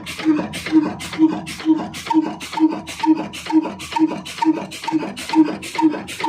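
Old 28 HP Ruston single-cylinder diesel engine running slowly and steadily: a heavy beat about twice a second, with a sharp click between the beats.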